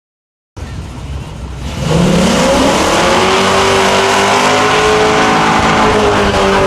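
A drag-racing car's engine comes in suddenly, revs up over about a second, and is then held at a high, steady pitch with a hiss of tyre noise under it.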